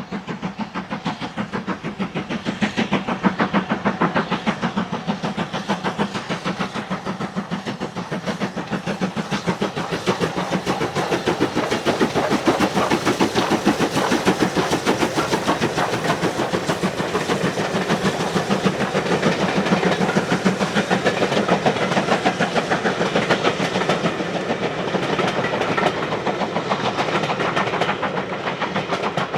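Steam locomotive working a train, its exhaust beating quickly and evenly, several beats a second, without a break.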